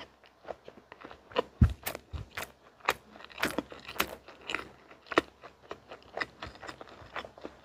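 Close-miked chewing of a bite of mint-cream pastry with chocolate cookie crumbs: irregular crunches and wet mouth clicks, several a second, with a louder crunch about a second and a half in.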